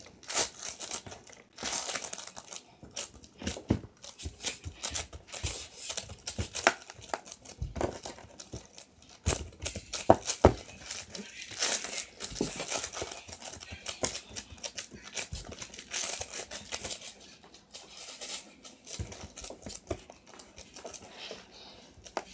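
Green slime being squished and worked by hand, giving a dense, irregular run of small crackling pops and clicks.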